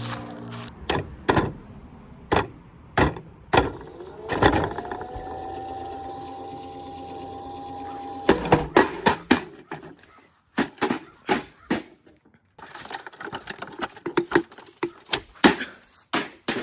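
Plastic toy washing machine being smashed and broken apart: irregular knocks and cracks throughout. Midway, a whine rises and holds a steady pitch for about four seconds, then cuts off.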